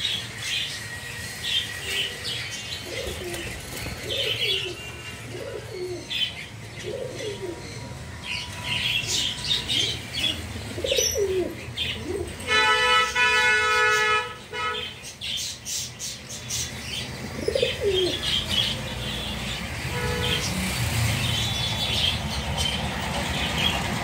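Caged budgerigars chattering in quick high chirps while fancy pigeons coo in low, rising-and-falling calls, with wings flapping now and then. About halfway through, a loud steady horn tone sounds for about two seconds, with a short one near the end.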